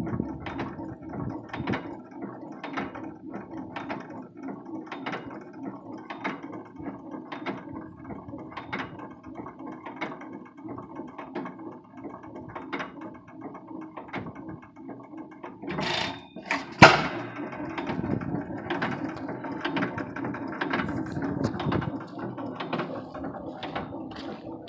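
9hp Economy Model E stationary gas engine running slowly, with a steady low chuffing and a regular sharp click about once a second. About two thirds of the way through comes one louder, sharp bang.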